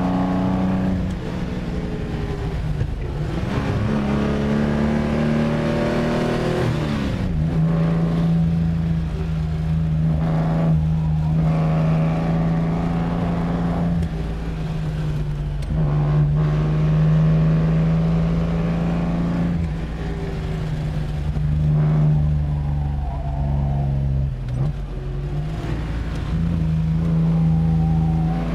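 1953 Lancia Aurelia B20 GT's V6 engine pulling hard, heard from inside the cabin. Its note climbs with revs and drops sharply at each gear change, several times over, then picks up again.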